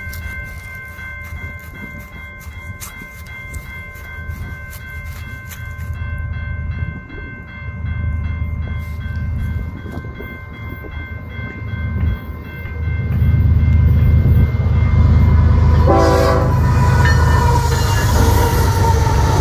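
Level-crossing bell ringing steadily while a Canadian Pacific freight train approaches. The diesel locomotives' rumble builds and becomes loud about two-thirds in as they pass close by, with a brief horn blast shortly after.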